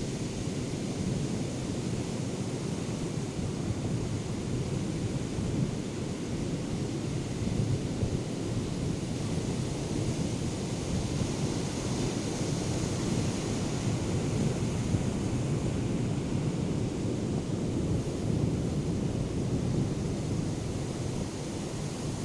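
Heavy ocean surf from a hurricane swell, a steady rumble of breaking waves and wash, with wind buffeting the microphone.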